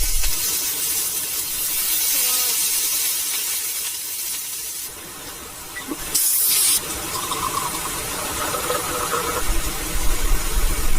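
Steady hiss of falling rain, with a short louder rush a little past halfway.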